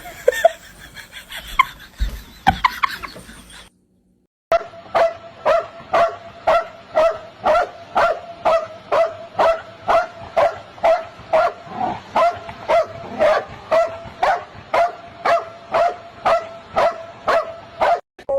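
A dog barking over and over in an even rhythm, about two short pitched barks a second. The barking begins after a brief gap about four and a half seconds in.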